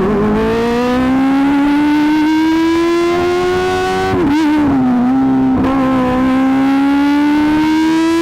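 Kawasaki ZX-25R's 249 cc inline-four running through an Akrapovic GP titanium exhaust. Its high, buzzing note climbs slowly in pitch, dips about halfway through, then climbs again.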